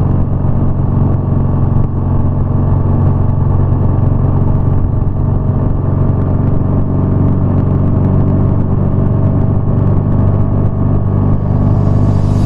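BMW R nineT's air/oil-cooled flat-twin boxer engine and exhaust running at a steady speed while the motorcycle cruises, holding an even pitch.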